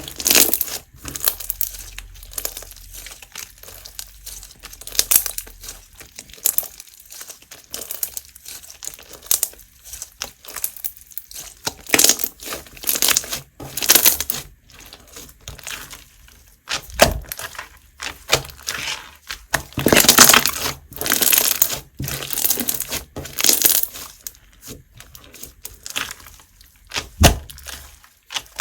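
Slime with crunchy pieces mixed in being squeezed and pressed by hand, giving irregular crackles, pops and crunches that come in uneven clusters.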